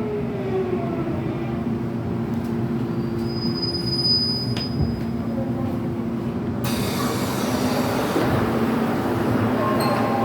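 Seoul Subway Line 8 electric train running, with a steady motor hum and a whine that falls in pitch at the start. A brief high wheel squeal comes about three to five seconds in, and a louder rushing running noise sets in suddenly at about six and a half seconds.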